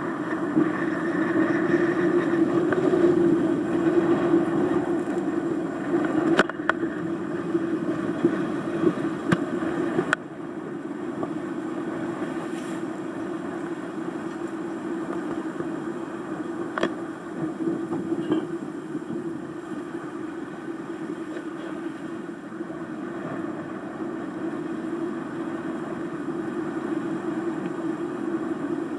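A sailing yacht underway in gale-force wind: a steady drone with a rushing noise over it and a few clicks, dropping suddenly in level about ten seconds in.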